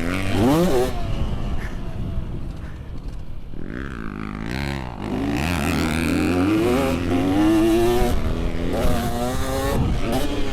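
Two-stroke TM 250 dirt bike engine revving hard, its pitch climbing and dropping again and again as the throttle is opened and rolled off over jumps and corners.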